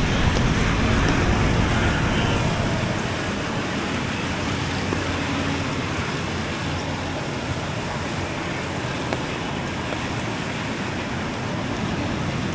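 Road traffic going by, a steady noisy wash of tyres and engines, with a heavier vehicle rumble that eases off over the first few seconds.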